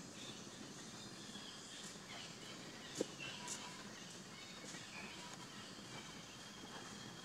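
Quiet outdoor background with faint, short, high chirps and a single sharp click about three seconds in, followed by a few softer ticks.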